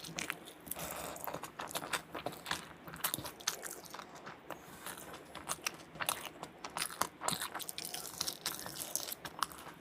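A person biting and chewing food close to the microphone, with many quick, irregular crunches.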